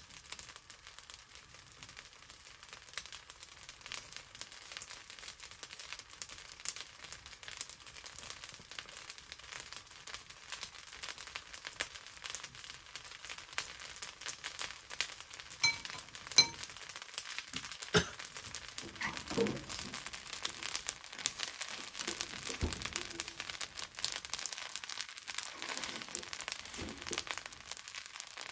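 Fried rice sizzling and crackling in a wok, with a metal spatula scraping and clinking against the pan as the rice is stirred. The knocks and scrapes come more often and louder in the second half.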